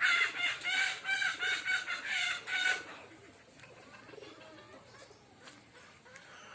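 A bird calling in a quick run of short, repeated notes, about three a second, for roughly three seconds, then fainter scattered bird calls.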